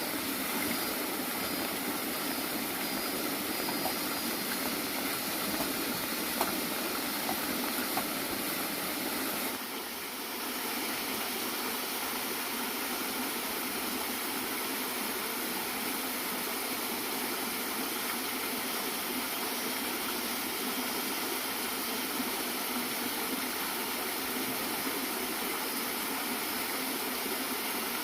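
Water from a bamboo waterfall pouring and splashing steadily into a fish pond, with a brief dip in level a little under half way through.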